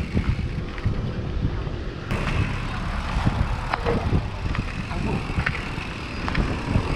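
Wind buffeting the microphone of a camera carried on a moving bicycle, a gusty low rumble, with road traffic noise mixed in and a few small clicks.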